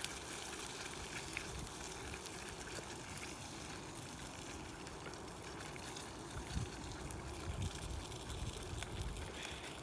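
Steady trickling, rushing noise like running water, with a few low thumps near the end.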